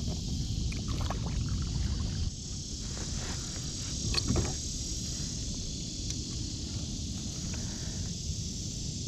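Kayak being paddled on a pond: water sloshing and a few knocks of the paddle against the boat, loudest about four seconds in, over a steady low rumble and a steady high insect drone.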